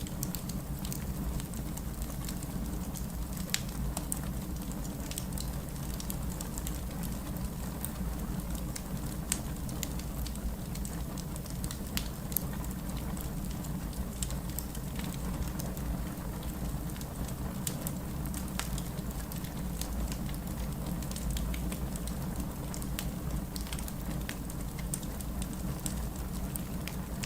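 Fireplace crackling with scattered sharp pops over steady rain and a low, even rumble.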